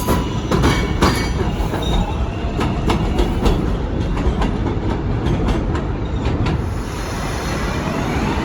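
Subway train moving over rail joints and switches: a quick string of wheel clicks and knocks with some wheel squeal over a low rumble. The clicks thin out after about six seconds, and a rising whine comes in near the end.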